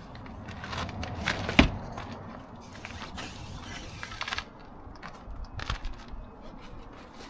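Irregular clicks, scrapes and crunches of something being handled, with one sharp knock about a second and a half in.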